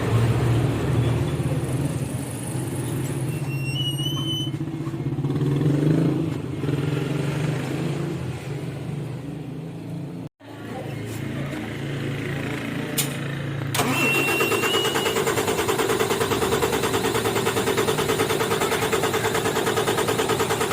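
Diesel truck engine running on homemade biodiesel made from used cooking oil, ticking over steadily just after being started and bled. The sound drops out briefly about halfway through, then goes on as an even, steady run.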